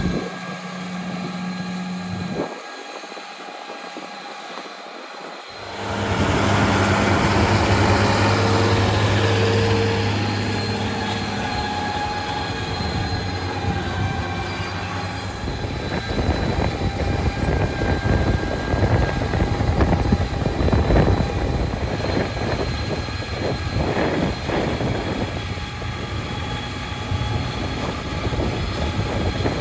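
Farm tractor engine running steadily. The sound drops and changes abruptly about two and a half seconds in, comes back loudest about six seconds in, and turns rougher with irregular clatter in the second half.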